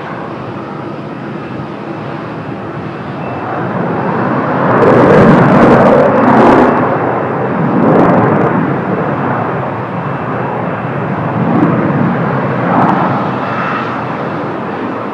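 Jet airliner's engines going by close, the noise swelling to its loudest about five to seven seconds in, then easing off unevenly with a few surges.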